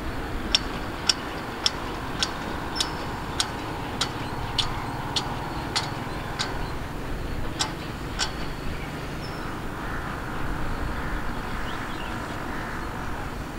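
Tanker freight train rumbling low and steady as it runs away over the track, with a regular series of sharp high ticks, about two a second, for the first eight seconds or so.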